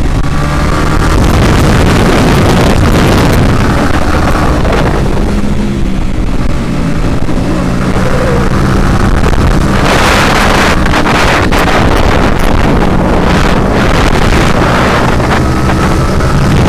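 Motorcycle engine running under way, its pitch rising and falling with the throttle, under heavy wind noise on the microphone. The wind rushes loudest about ten to twelve seconds in.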